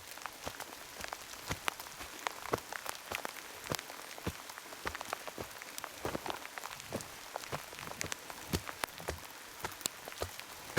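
Heavy rain falling, a steady hiss with many sharp, irregular drop hits close by.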